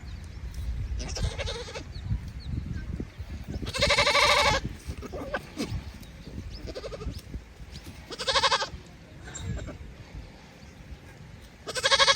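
Livestock bleating: three loud, drawn-out bleats about four seconds apart, with a fainter one about a second in, over a low rumble.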